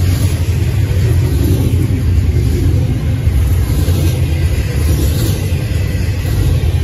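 Double-stack intermodal container train rolling past at speed: a steady, loud rumble of steel wheels on the rails.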